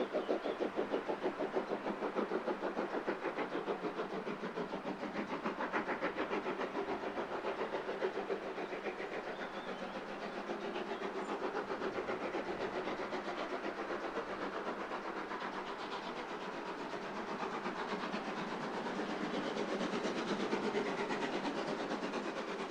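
A train running at speed: a fast, even, rhythmic clatter with hiss.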